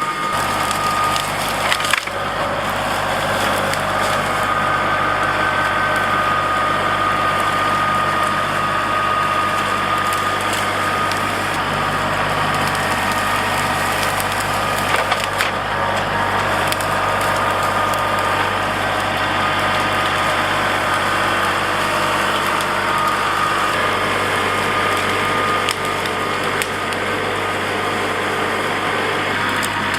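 Kubota L3901 compact tractor's diesel engine running steadily under work with a steady high whine, while the grapple crushes brush and limbs: wood cracking and splintering in repeated sharp snaps.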